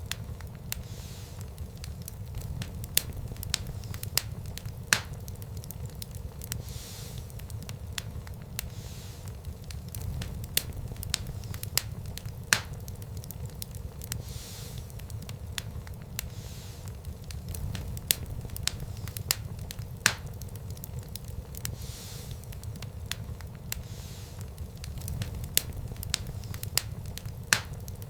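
Wood fire burning in a fireplace, crackling: a steady low rumble of the flames with frequent sharp pops and snaps, a handful of them louder than the rest.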